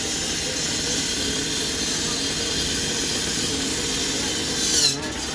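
Steady static hiss from a fire radio or scanner channel held open. It ends in a short falling chirp and cuts off suddenly near the end.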